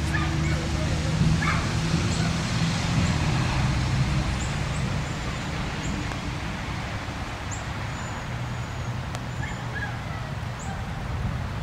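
Steady rain hiss with a low drone underneath that is strongest for the first four seconds or so and then eases off, and a few short high chirps scattered through.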